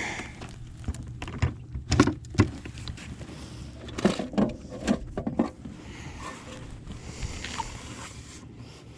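Scattered knocks and taps on a kayak as a freshly landed bass is handled aboard, with a cluster of knocks in the middle, over a faint steady low hum.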